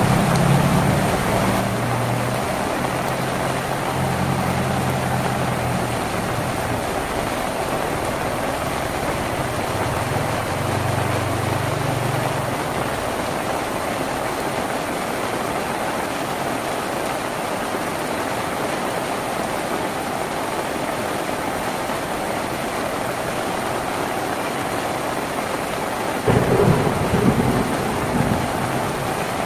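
Steady rain drumming on a tin roof. A low rumble of thunder rolls under it for the first half and starts again near the end.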